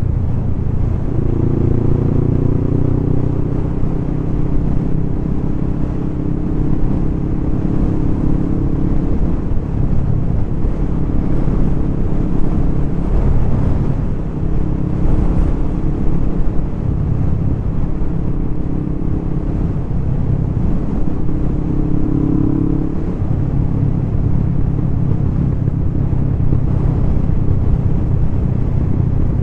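Kawasaki ER-5 (ER500) parallel-twin motorcycle engine running steadily under way, with wind and road noise; its note shifts a few times.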